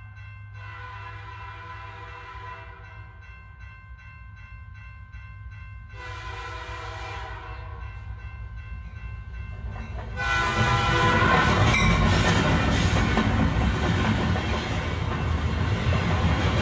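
Locomotive whistle sounding two long blasts of about two seconds each, both a steady chord of several tones. From about ten seconds in, the much louder clatter of a train running takes over.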